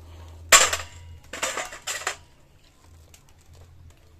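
Metal pieces clattering against each other and a hard surface: one loud clank about half a second in, then a second run of clatter about a second later, with light clicks after.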